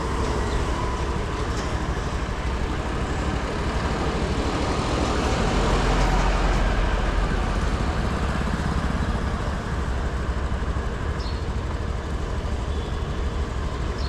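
TVS Pep+ scooter's small single-cylinder four-stroke engine running on the move, mixed with road and wind noise. It grows somewhat louder about five to seven seconds in, then eases back.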